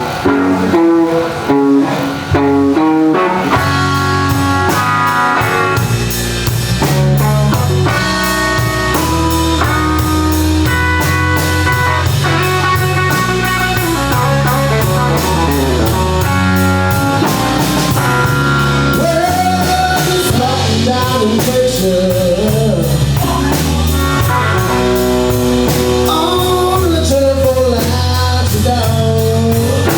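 Blues band playing a slow blues intro: an electric guitar lead with bent notes over bass and drum kit. A guitar phrase opens alone and the full band comes in about three and a half seconds in.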